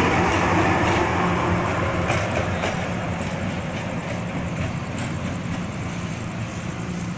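A train running on the rails with a steady low rumble and a few sharp clicks from the wheels, growing fainter as it moves away.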